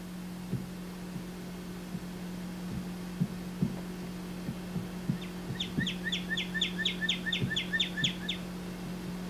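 Beginning about five and a half seconds in, a songbird sings a quick run of about a dozen chirps lasting some three seconds. Under it runs a steady low hum with soft, irregular thumps every half second to a second.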